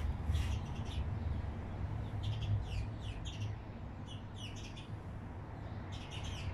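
Small birds chirping in quick runs of short, high, falling notes, over a steady low rumble.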